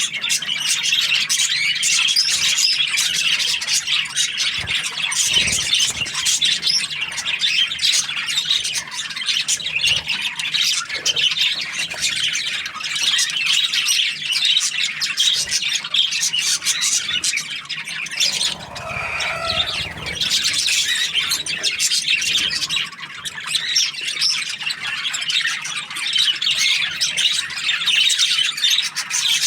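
Budgerigar (budgie) chirping and chattering without pause, a dense stream of high, quick squawks and tweets.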